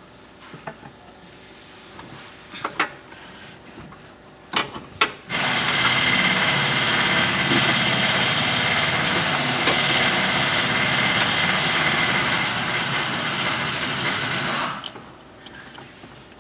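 A few light clicks and knocks, then a loud, steady machine noise starts abruptly about five seconds in, runs for about nine seconds and cuts off.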